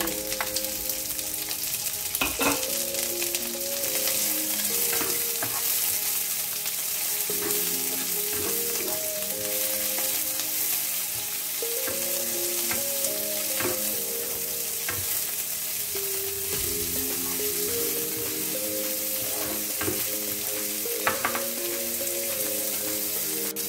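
Garlic chives and minced garlic sizzling in hot oil in a nonstick frying pan, stirred and turned with a spatula, which clicks against the pan now and then. A faint series of steady pitched notes, changing every half second or so, runs underneath.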